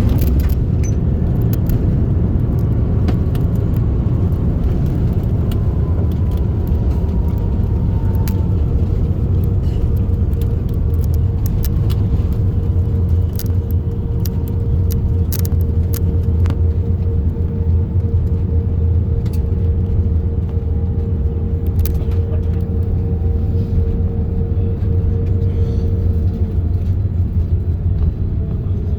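Airliner cabin noise inside an Airbus A330-900neo on its approach to land: a steady, loud low rumble of airflow and engines, with a steady mid-pitched engine whine that drops slightly near the end. Scattered small clicks and rattles from the cabin sit over it.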